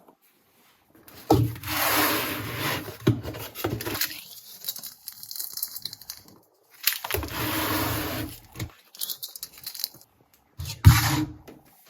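Household objects being handled: three bursts of rustling and scraping with a few sharp knocks between them.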